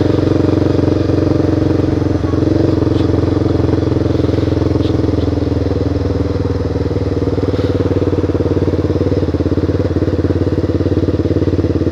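Honda CBR motorcycle engine running with a steady, unchanging note, with a few faint ticks.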